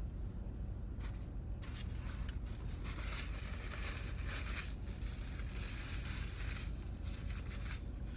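Someone eating fast food in a car: crunchy chewing and the crackle and rustle of food wrappers come in irregular patches over a steady low hum.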